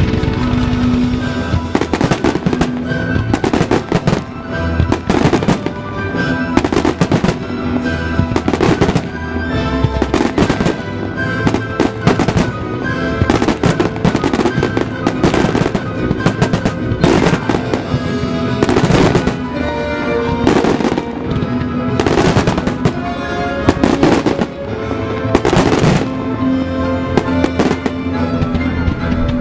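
Fireworks bursting in quick succession, roughly once a second, over loud music played along with the show: a music starmine.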